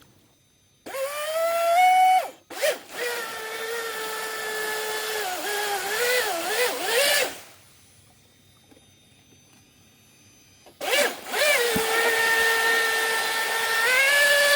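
Brushless motor of an RC water-jet boat whining under throttle, its pitch rising, wavering and dipping as the throttle changes. It shuts off for about three seconds, then spins up again and steps higher near the end.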